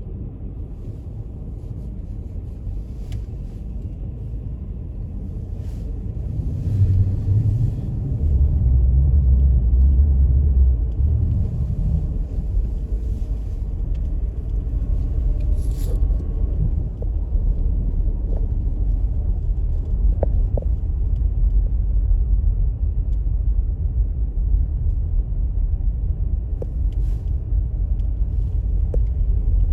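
Low, steady rumble of a car driving, growing louder from about seven to twelve seconds in.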